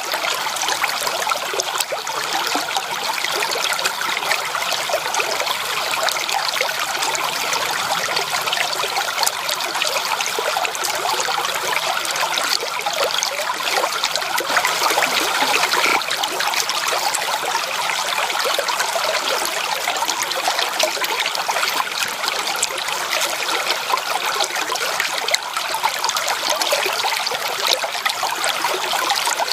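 Running stream water: a steady trickling, splashing rush made of many small splashes, with almost no deep rumble.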